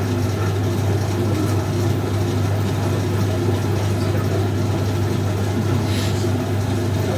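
1965 English Electric Liberator washing machine running, its motor giving a steady hum, with one brief click about six seconds in.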